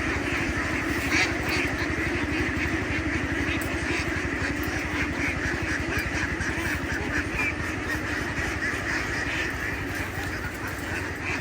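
An engine running steadily, with ducks quacking over it.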